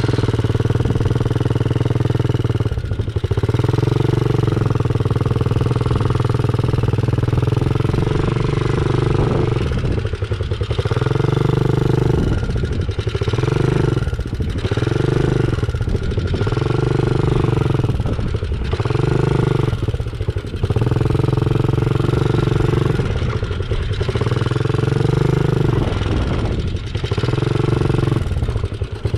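Small dirt bike engine running hard, with the throttle opened and eased off again every couple of seconds as the bike is ridden around a dirt track.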